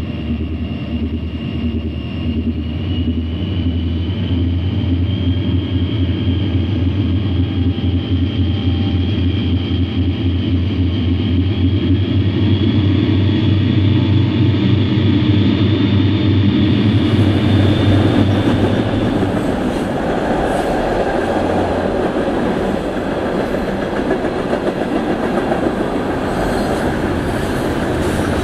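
Diesel freight locomotive sound: a steady deep engine drone with a high whine that rises slowly. About 17 seconds in this gives way to the rolling rumble of freight cars going by.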